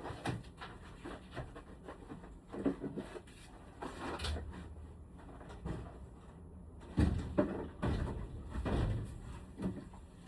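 Hard objects being handled: irregular knocks, clacks and rubbing, with a few louder bumps about seven seconds in.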